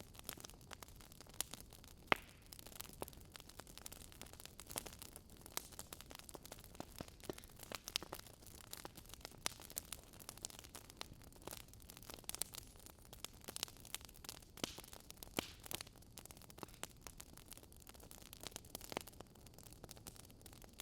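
Campfire burning wood, crackling with many irregular sharp pops over a faint steady hiss; the loudest pop comes about two seconds in.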